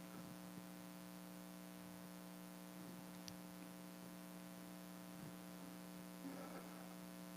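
Near silence with a steady electrical hum from the sound system, a faint click about three seconds in and a brief faint murmur near the end.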